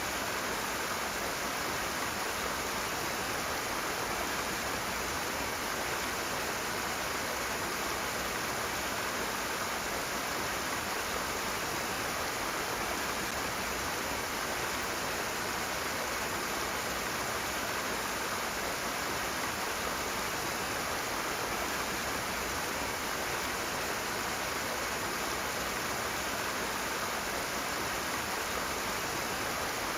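Rushing water: a strong, steady flow of a stream or cascade, an even hiss-like rush with no changes or separate splashes.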